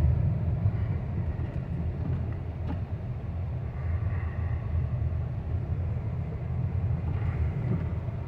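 Steady low rumble of a car driving on snow-covered roads, heard from inside the cabin: engine and tyre noise with no distinct events.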